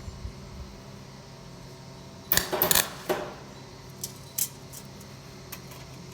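A quick cluster of sharp clinks and rattles about two and a half seconds in, then a few lighter taps, over a steady hum like a workshop fan.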